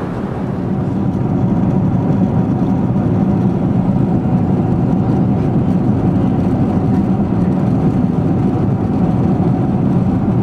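Steady, loud low drone of a vehicle in motion, an even rumble without changes in pitch.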